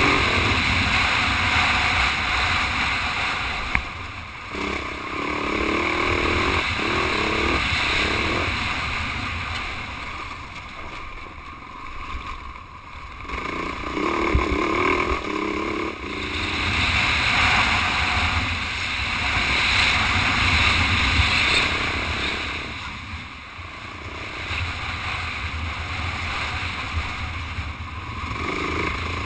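Husaberg 450 FE single-cylinder four-stroke dirt-bike engine running under way on a gravel road, its level swelling and dipping several times as the throttle opens and closes, with heavy wind rush on the helmet microphone.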